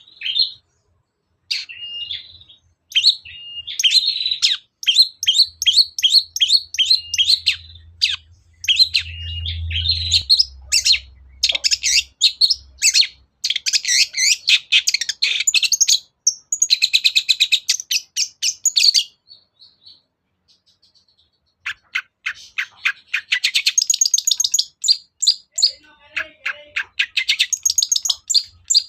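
Long-tailed shrike (cendet) singing a fast, scratchy chatter of short notes and rapid trills, pausing for about two seconds roughly two-thirds of the way through, then chattering again.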